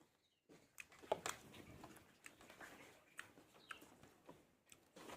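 Near silence with faint, scattered clicks and ticks: room tone.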